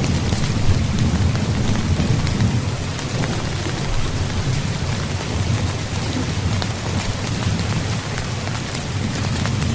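Steady rain falling on a tent, with many separate drop hits on the fabric over a continuous low rumble of thunder.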